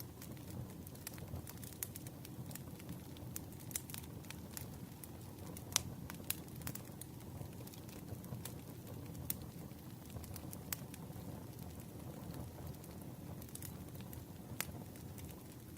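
Campfire crackling: a steady low rush of burning wood under irregular sharp pops and snaps, the loudest about six seconds in.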